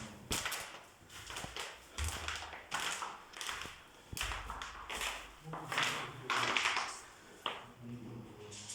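A string of short rustling, scraping strokes, about one a second, from wallpaper being handled on the wall.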